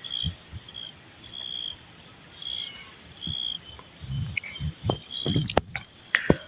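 Insects, crickets among them, keeping up a steady high-pitched drone, with short chirps repeating about once or twice a second. Several dull thumps and a few sharp clicks come in the second half.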